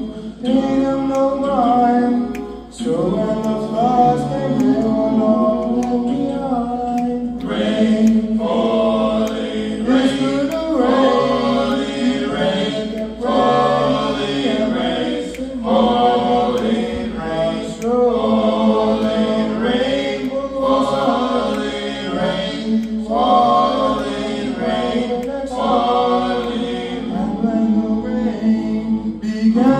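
Vocal music: many overlapping voices layered into a choir-like texture, with a short phrase recurring about every two and a half seconds.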